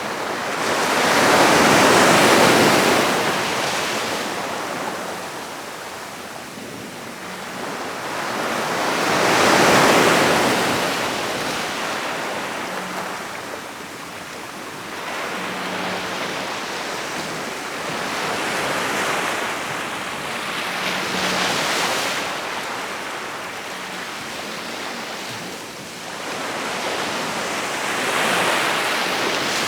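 Ocean waves breaking on the shore, the surf swelling and fading every several seconds. The two biggest breaks come about two seconds and ten seconds in, with smaller ones after.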